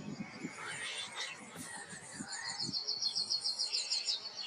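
Wild songbirds calling and singing: scattered high chirps, then from about halfway through a fast, even, high-pitched trill that runs on to the end. Faint low knocks sound underneath.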